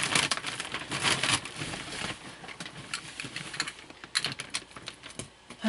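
Cardboard box and packaging being handled and opened: a run of irregular scrapes, rustles and clicks, busiest in the first second or so and again about four seconds in.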